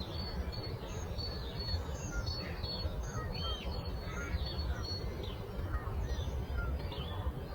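Several songbirds chirping and singing in short, overlapping whistled notes over a steady low rumble of background noise, such as breeze or distant flowing water.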